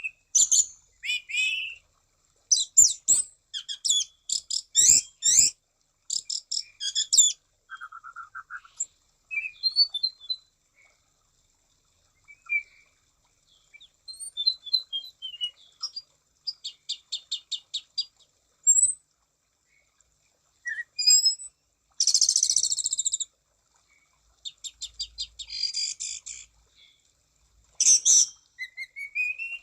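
Anis cendana thrush singing an energetic, varied song: rapid rattling trills, slurred whistles and short chirps in phrases with brief pauses, including a harsh buzzy phrase a little over two-thirds of the way through.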